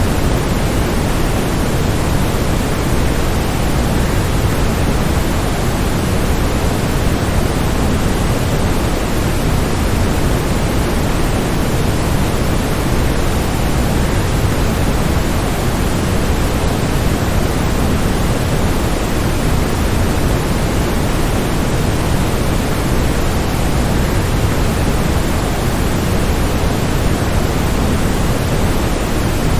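Steady rush of falling water from a waterfall: a loud, even noise heaviest in the low end, with no changes or separate splashes.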